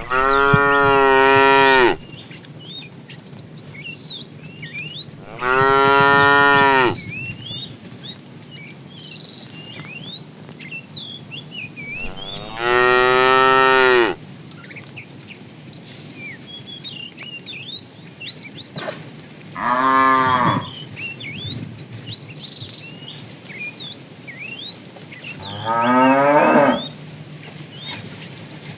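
A cow mooing five times, long loud calls spaced several seconds apart; the last moo rises in pitch.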